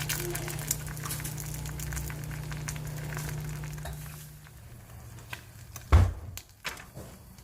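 Food cooking on a stove, crackling and bubbling over a steady low hum that stops about four and a half seconds in; a single dull thump follows near the end.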